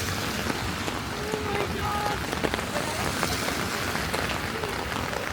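Steady rain falling on wet pavement and street surfaces: a continuous even hiss.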